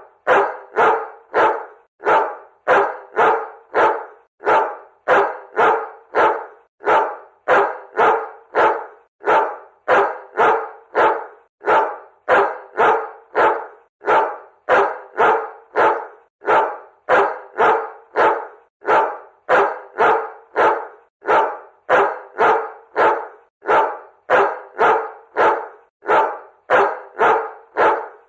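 A dog barking over and over at a steady pace, about two barks a second, each bark much like the last.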